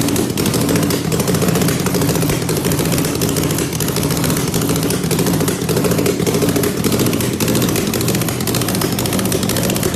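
Motorcycle engine running steadily, its exhaust giving a rapid, even pulsing.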